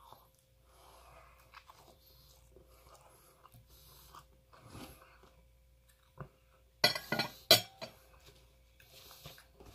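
A person chewing a bite of fried tofu stuffed with shrimp close to the microphone, soft wet mouth sounds. A short cluster of loud sharp smacks comes about seven seconds in.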